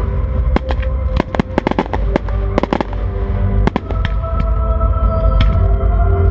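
Fireworks display: many sharp bangs and crackling bursts going off in quick, uneven succession over a heavy low rumble, with a musical soundtrack playing under them.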